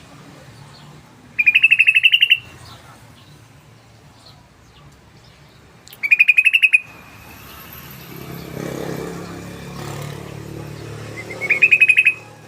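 Sooty-headed bulbul (trucukan) singing its rapid rattling trill: three quick bursts of fast repeated notes, each under a second, about four to five seconds apart.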